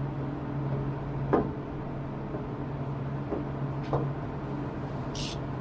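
A steady low hum in the workshop with a few separate knocks and clicks as tools work a threaded insert into plywood, the loudest about a second and a half in, and a short hiss near the end.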